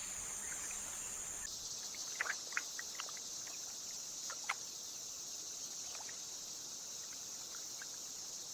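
Rainforest ambience: a steady high-pitched insect chorus, with a few short ticks between about two and four seconds in.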